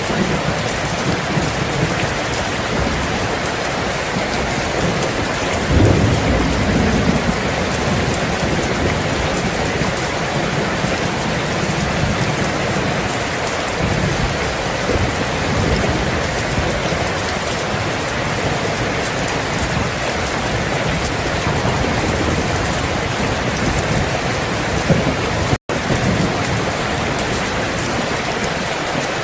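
Steady heavy rain, with low rumbles of thunder swelling about six seconds in and again around fifteen seconds. The sound cuts out for an instant about 25 seconds in.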